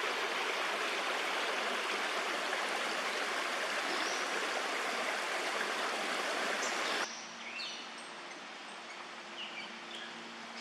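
Creek water rushing steadily, cut off abruptly about two-thirds of the way through, leaving a quieter stretch with a few short, high bird chirps.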